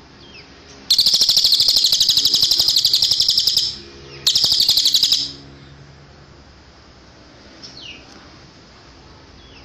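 Cililin bird singing: a loud, very rapid high trill lasting nearly three seconds, a brief pause, then a second trill of about a second. Faint short falling chirps come before and after.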